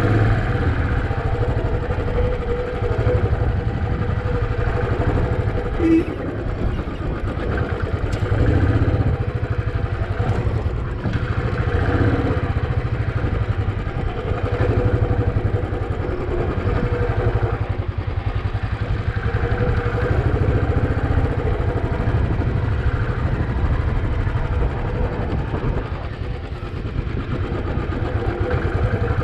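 Royal Enfield Bullet 350's single-cylinder engine running steadily as the motorcycle is ridden, with a brief knock about six seconds in.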